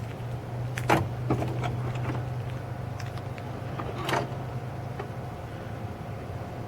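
Electric door and ramp mechanism of a wheelchair-accessible truck conversion working off its remote: a steady motor hum with sharp clicks about one second in and again about four seconds in. The hum drops off around five seconds in.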